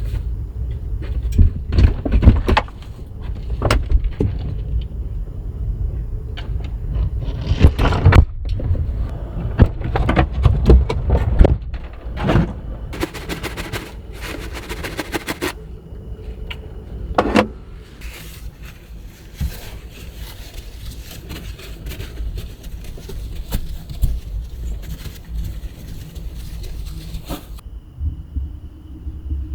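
Strong gusting wind buffeting the microphone, with deep uneven rumbling and scattered knocks and rattles; a hissing rush of wind-driven snow runs through the second half.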